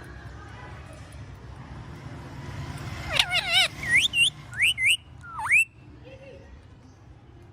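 Indian ringneck parakeet calling: after a few quiet seconds, one wavering call, then a quick run of short upward-sweeping whistles.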